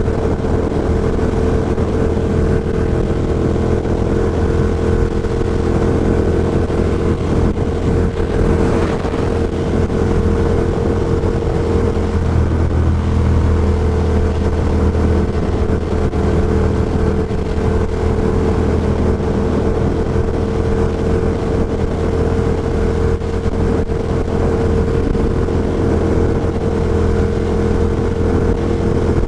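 Ducati Diavel Carbon's 1198 cc V-twin with an Austin Racing GP2 exhaust running under way at a steady road speed, heard through a microphone inside the rider's helmet together with wind noise. The engine note holds steady, with a brief dip in pitch about twelve seconds in.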